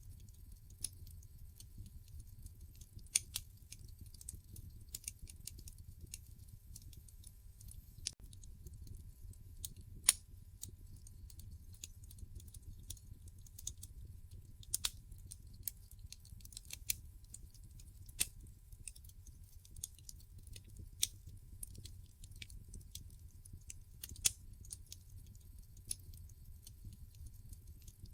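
Wood fire burning in a fireplace: logs crackling with irregular sharp pops over a steady low rumble of the flames, the loudest pop about ten seconds in.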